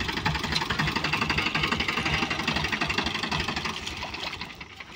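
Tractor diesel engine running with a steady, fast knocking beat, fading toward the end.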